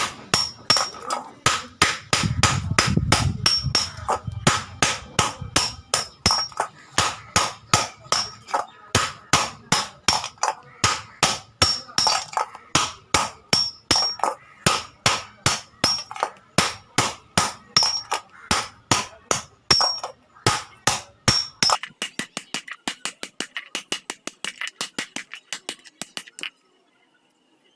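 Hand hammer striking iron on an anvil in a steady rhythm of about three blows a second, each blow ringing. Near the end the blows turn lighter and higher-pitched, then stop.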